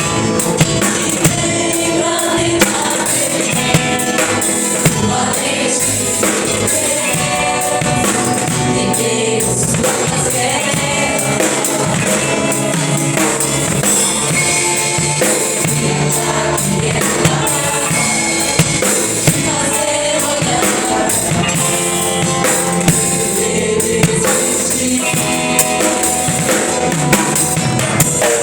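Gospel worship music: voices singing over a band with a drum kit, the drums hitting accents about once a second or so.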